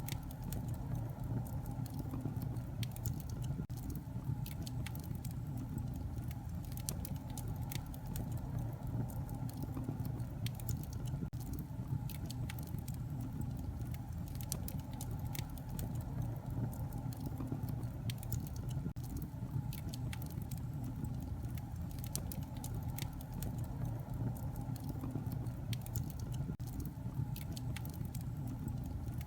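Wood fire burning in a fireplace, crackling with many small irregular pops over a steady low rumble of flames.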